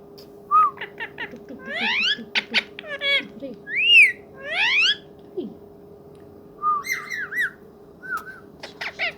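Ringneck parakeet whistling in two bouts of quick rising and arching whistled notes.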